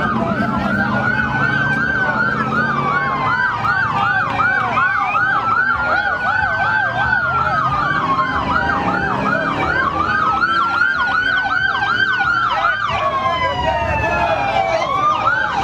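Police sirens sounding together, one on a fast yelp while another slowly wails up and down, over a low rumble.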